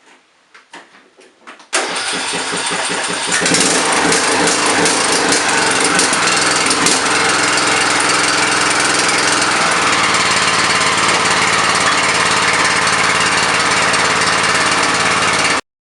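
John Deere LA105 lawn tractor's engine cranking and catching about two to three seconds in, then running steadily on its newly fitted spark plug until it stops abruptly near the end.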